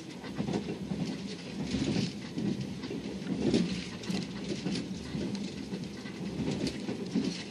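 Passenger train running at speed, heard from inside the carriage: a steady rumble of wheels on the track with light rattling, swelling and easing in loudness.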